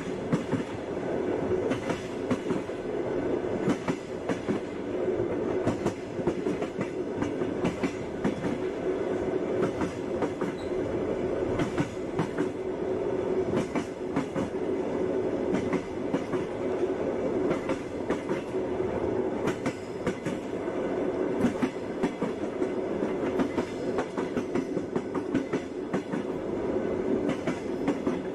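Passenger train running along the track: a steady rumble with the clickety-clack knocking of the wheels over the rails.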